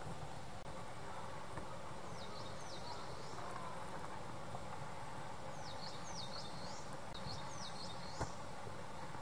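A small bird calling in short runs of quick, sweeping high whistled notes, several times, over a steady background hiss of outdoor ambience.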